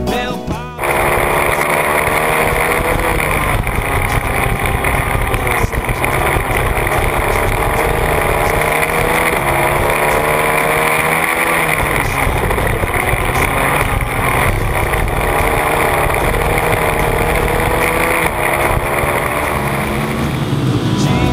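Several small four-stroke dirt bike engines, Yamaha TT-R125s, running on a flat track together, their pitches rising and falling as the riders open and close the throttle.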